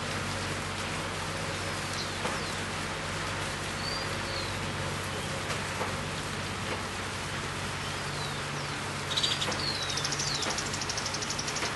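Steady rain with birds calling through it: thin, high downward-slurred chirps scattered throughout, and about nine seconds in a louder call followed by a fast rattling trill.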